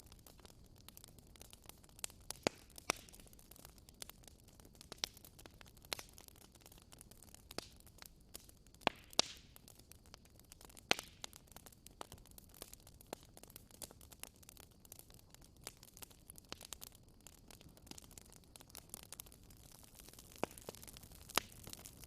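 Campfire crackling: irregular sharp pops and snaps, a few louder ones standing out, over a low steady hiss.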